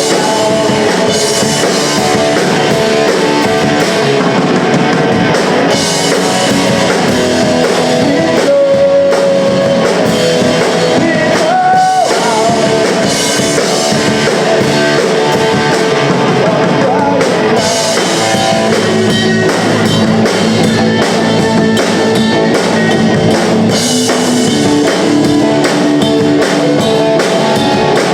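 Punk rock band playing live: electric guitars, bass and drum kit in a steady, loud full-band passage.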